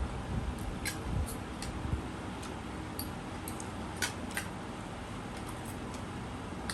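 Eating sounds during a rice speed-eating challenge: scattered light clicks and taps of utensils on plates, with a few soft low thumps in the first couple of seconds, over a steady background hiss.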